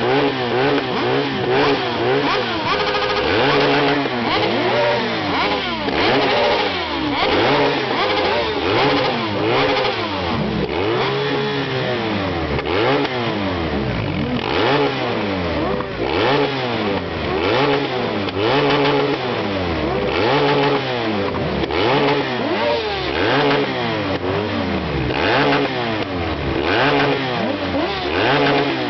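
Several motorcycle engines revved over and over at a standstill. The revs rise and fall roughly every second or two and overlap one another without a break.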